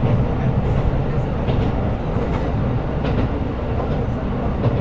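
KiHa 125 diesel railcar under way: a steady rumble of engine and wheels on rail, with a faint click from the track now and then.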